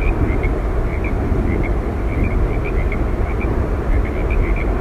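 Steady roar of Yosemite Falls, falling water rushing with a deep rumble underneath. Faint, short high chirps are scattered through it.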